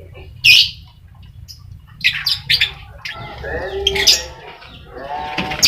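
Colony lovebirds squawking and chattering: one loud, sharp squawk about half a second in, then a run of shrill calls and pitched chatter.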